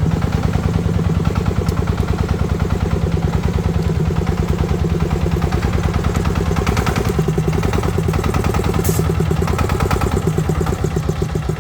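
Tractor engine running steadily with a fast, even chug.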